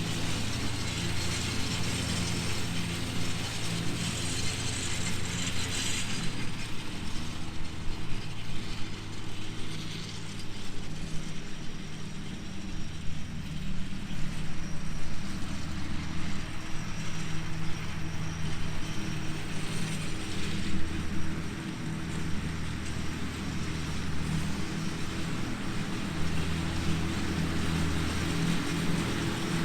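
Ford Jubilee tractor's four-cylinder engine running steadily under load while driving a three-blade finishing mower through long grass, its note swelling and easing every few seconds. Wind buffets the microphone throughout.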